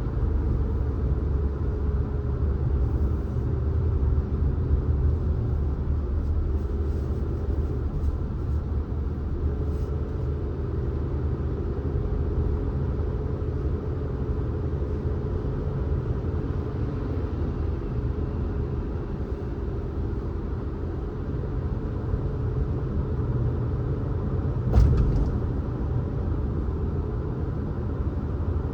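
Car driving along a road: steady low rumble of engine and tyres with a faint drifting hum, and a single short thump near the end.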